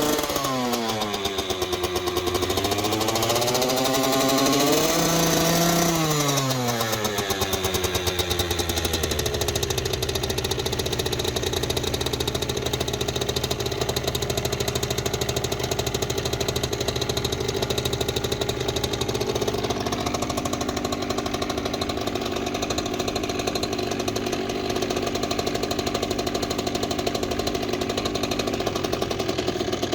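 Kawasaki KX65's small two-stroke single-cylinder engine revved twice, its pitch rising and falling, then settling into a steady idle after about ten seconds as it warms up after a cold start in frost.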